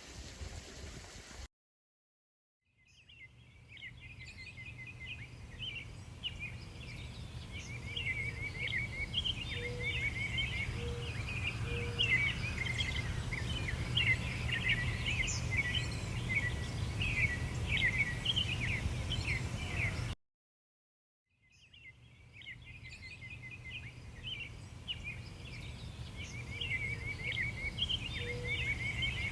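Many small birds chirping and twittering in quick, high calls over a steady low hum. The sound cuts out abruptly about two-thirds of the way through, then fades back in with the same chirping.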